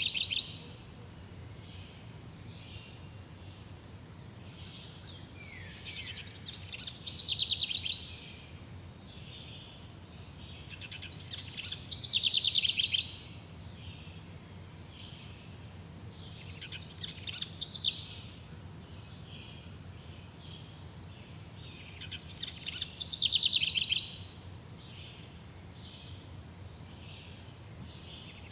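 A songbird singing the same short phrase over and over, about every five seconds. Each phrase lasts about a second and a half and runs into a fast high trill. Softer chirps come between the phrases over a steady low background hum.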